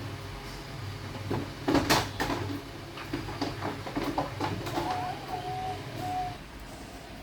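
A burst of knocks and rattles, loudest about two seconds in. Then three short, even-pitched coo-like notes about half a second apart, from a diamond dove, over a low steady hum.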